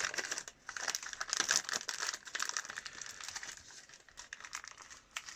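Plastic packaging crinkling as a new valve spring is handled and unwrapped, a run of quick crackles that thins out after about three seconds.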